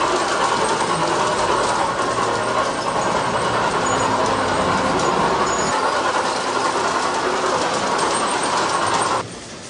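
G-scale model train running along its track, with a steady rolling clatter of wheels on rail. Near the end the sound drops off suddenly to a much quieter background.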